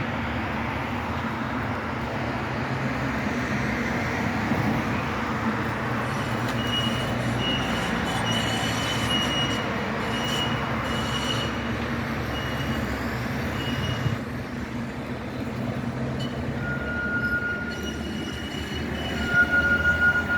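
Tram running through a turning loop, a steady rumble with high-pitched wheel squeal on and off from the tight curve, loudest near the end.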